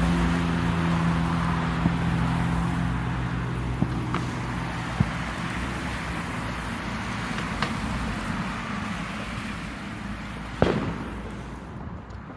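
Distant fireworks going off every few seconds as single sharp bangs, the loudest one near the end trailing off. Underneath is a steady rushing background, and a vehicle's low engine hum fades away over the first few seconds.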